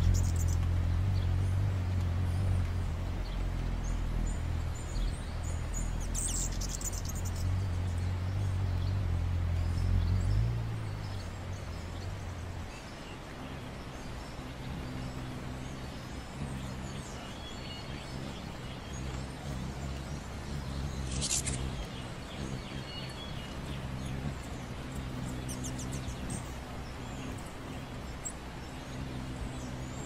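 A few short, high bird chirps over a low, steady hum; the hum drops in level and changes pitch about twelve seconds in.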